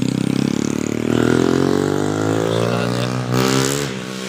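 A vehicle engine accelerating, its pitch rising steadily for a couple of seconds, then easing off near the end.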